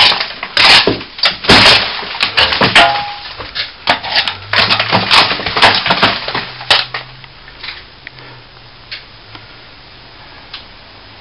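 Old plaster being scraped and broken out along a wall crack by hand: a rapid, irregular run of gritty crunching and scraping that stops about seven seconds in, leaving only a few faint clicks.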